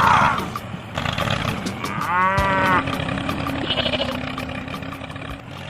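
A single drawn-out, moo-like animal call with an arching pitch, over a steady low hum.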